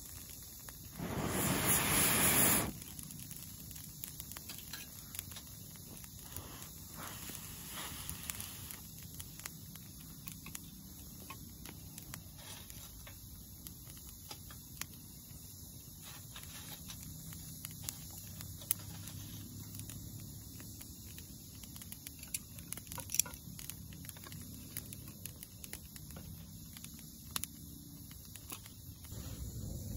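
Rain pattering in scattered small drops over a low steady rumble, with a brief loud rush of noise about a second in.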